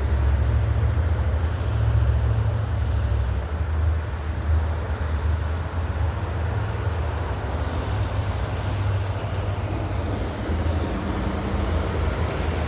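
Heavy truck traffic on the road: a steady, loud, low engine rumble over road noise.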